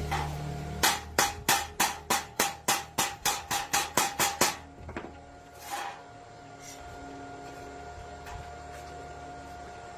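A hammer striking metal about a dozen times in quick, even succession, roughly three to four blows a second, each blow ringing briefly. A short hiss follows a little after the hammering stops.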